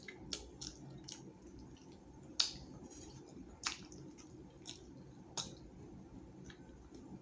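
Wet mouth clicks and smacks of a person chewing food close to the microphone, scattered irregularly, the sharpest about two and a half seconds in.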